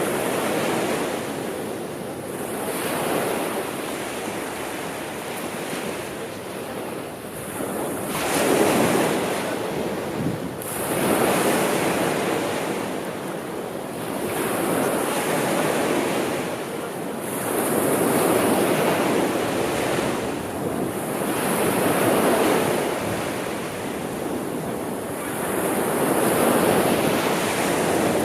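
Gentle sea waves washing in and out, the surf swelling and receding every three to four seconds.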